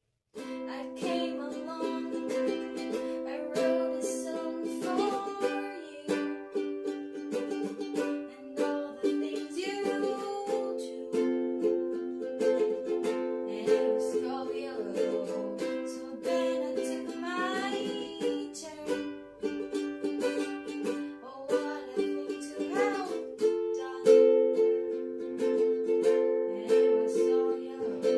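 A ukulele played in a small room: strummed chords ringing on with frequent fresh attacks, plus a few single notes that slide up in pitch.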